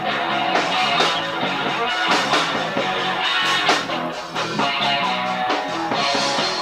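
A live rock band playing: guitar over bass guitar and drums.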